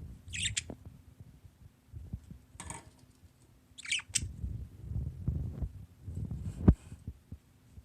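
Budgerigars giving three short, high chirps, over low thumping and rustling close to the microphone, with one sharp knock near the end.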